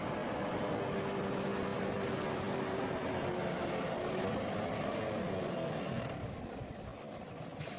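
Diesel engine of heavy earthmoving equipment running steadily, growing quieter about six seconds in.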